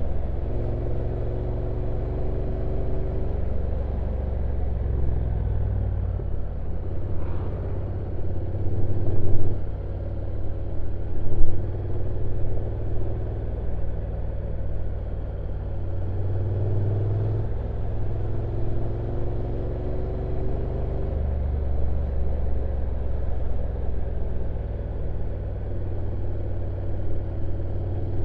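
Honda NC750X DCT motorcycle's parallel-twin engine running at low revs on a downhill ride, a steady low rumble whose pitch drifts up and down with road speed. Two brief louder swells come about nine and eleven seconds in.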